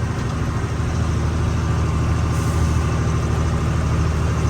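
Truck engine running steadily under way, a continuous low drone.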